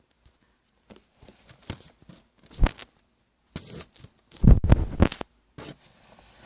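Scattered close-up knocks, clicks and brief rustling, with a cluster of loud, deep thumps about four and a half to five seconds in.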